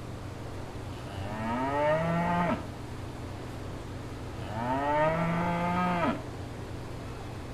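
A cow mooing twice, each moo about a second and a half long, rising in pitch and then dropping off at the end, over a steady low hum.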